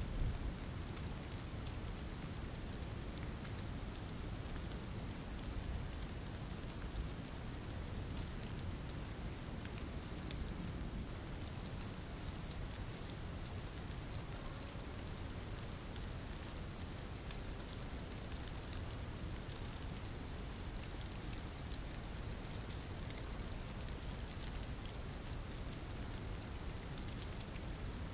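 Steady rainfall: an even hiss of rain with many small drop ticks, over a constant low rumble.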